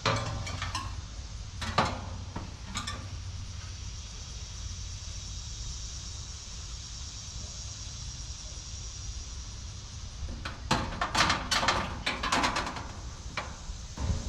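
Scattered sharp metal clanks and knocks: a few near the start, then a dense clatter about ten to thirteen seconds in. Between them runs a steady low hum and a high hiss.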